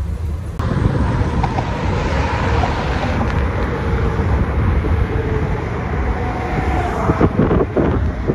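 Wind rushing over the microphone mixed with road traffic noise, steady throughout, with a faint passing engine tone in the middle.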